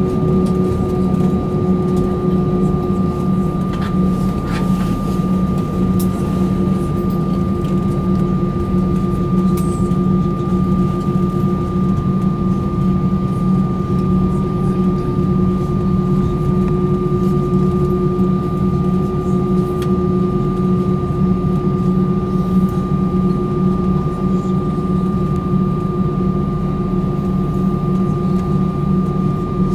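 An Airbus A319's engines running at low, unchanging power, heard inside the cabin as a steady low hum with a steady high whine over it.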